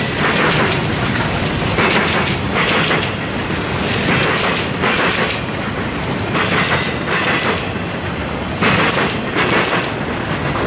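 Freight train rolling by close at hand: a steady rumble of trailing diesel locomotives and then boxcars, with clickety-clack clusters of wheel clicks every half second to a second as the wheel sets cross the rail joints.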